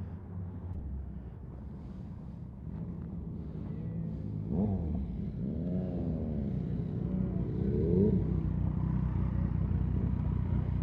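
Motorcycle engines running: a steady low engine note, with revs rising and falling several times between about four and eight seconds in, growing louder.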